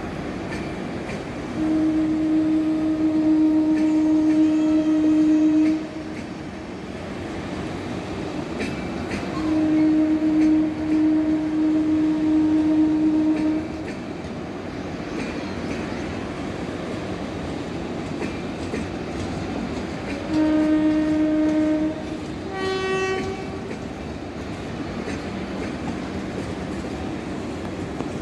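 Passenger coaches rolling past with a steady rumble and wheel clatter. Over it, a locomotive's air horn sounds two long blasts of about four seconds each, then a shorter blast about twenty seconds in, followed by a brief higher-pitched toot.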